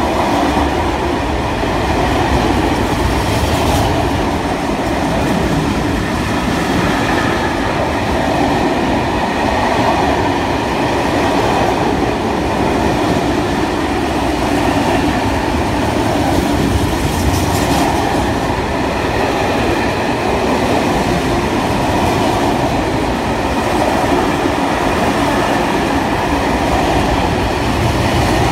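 Freight train wagons rolling past close by: a loud, steady noise of steel wheels running on the rails, with faint ringing tones above it.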